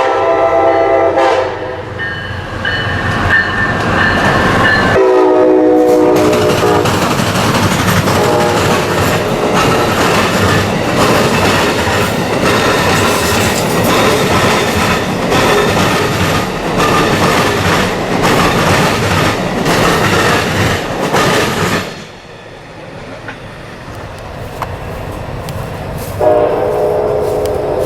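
Amtrak Silver Star passenger train's locomotive horn sounding a chord that drops in pitch about five seconds in as the locomotive passes. The train then rumbles past, its wheels clattering over the rail joints, for about seventeen seconds. After the train, it goes quieter and the horn sounds again near the end.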